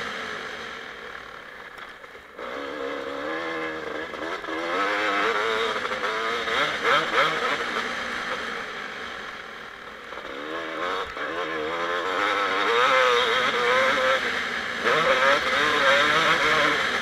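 2007 Kawasaki KX250 two-stroke motocross engine revving up and down under a working throttle. The revs drop about two seconds in, climb again, fall back around the middle and build once more near the end.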